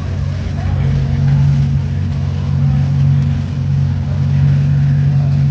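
A car engine running with a steady low drone and road noise, holding an even pitch without clear revving.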